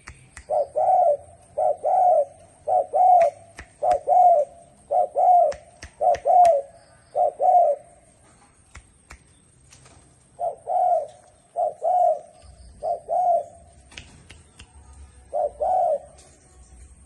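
Spotted dove cooing: a run of about seven low, doubled coos roughly a second apart, then a pause of a few seconds, three more coos, and a last one near the end. Faint clicks sound between the calls.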